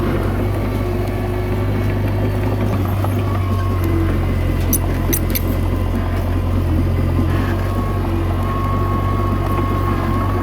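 Komatsu D21A bulldozer's diesel engine running at a steady, even speed under work. A thin whine rises above it in the second half, with a few short high ticks about halfway through.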